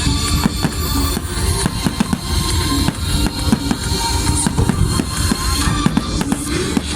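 Fireworks exploding in rapid succession, a dense run of overlapping bangs and crackles over a low rumble.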